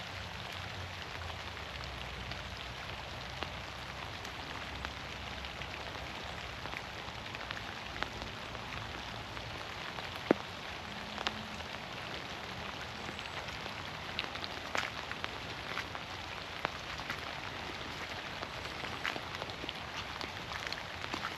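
Steady rain hissing through forest trees, with many scattered louder drops tapping, one sharp tap about halfway through.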